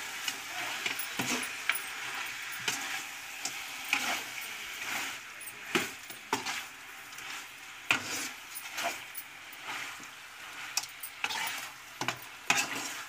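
Chicken pieces frying in a metal pot, sizzling steadily while a metal spatula stirs them, scraping and clanking irregularly against the pot.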